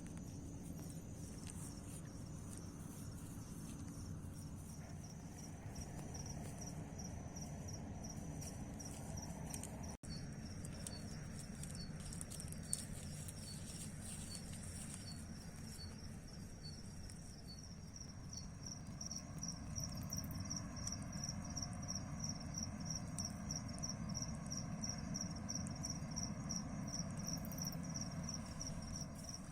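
Crickets chirping in a steady high pulsing trill that quickens in the second half, with a second, lower chirping insect joining in the middle. A low steady rumble lies underneath, and a single sharp click sounds a little before the midpoint.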